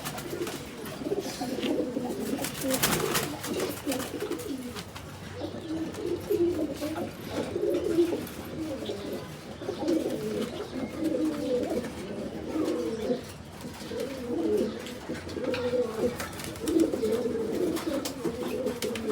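Pigeons cooing over and over in low, repeated calls, with a brief clatter about three seconds in.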